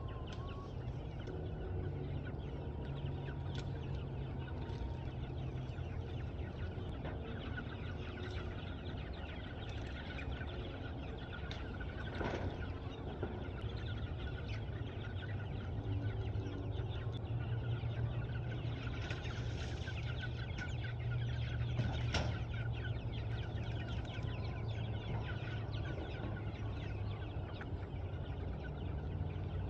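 Meat chickens clucking, over a steady low rumble.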